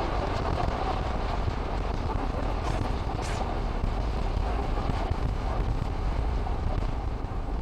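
Steady rushing wind noise buffeting the microphone, a low rumble with no distinct tones or knocks.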